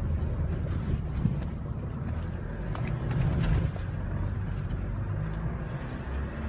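Small truck driving, heard from inside the cab: a steady low engine and road drone with a few light clicks and rattles.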